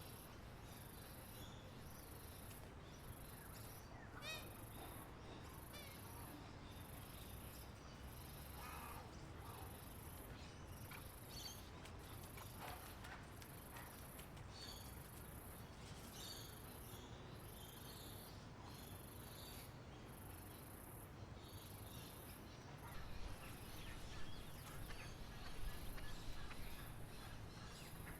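Outdoor nature ambience: an insect's high buzzing chirp pulsing about once a second, with scattered bird chirps and short descending trills. A low rumble grows louder near the end.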